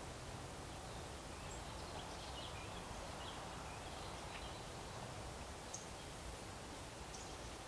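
Steady low outdoor background hum with faint, scattered high chirps of small birds, mostly in the first half, and a couple of brief high ticks near the end.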